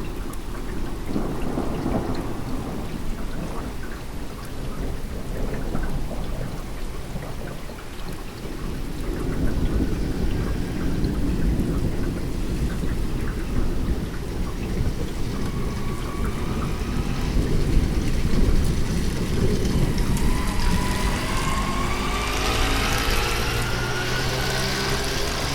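Thunderstorm: low rolling thunder rumbling under steady heavy rain, swelling louder twice. Over the last few seconds an engine-like sound rising in pitch comes in over the rain.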